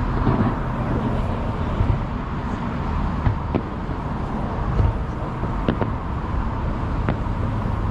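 Aerial fireworks going off: a continuous low rumble of distant bursts, with several sharp bangs and cracks scattered through it.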